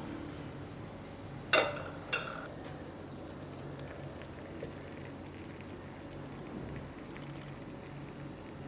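Two sharp clinks with a brief ring, about a second and a half in and again half a second later, the first louder, over a steady low background hum.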